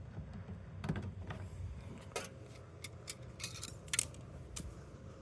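Scattered light clicks and taps of small hard parts and a hand tool being handled and set down, irregular and a second or so apart, with a short cluster of clicks near the end.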